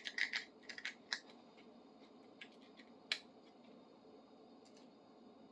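Folded sandpaper rubbing in the groove of an adjustable wrench: a few short scratchy strokes in the first second, then only faint rubbing with a couple of light clicks.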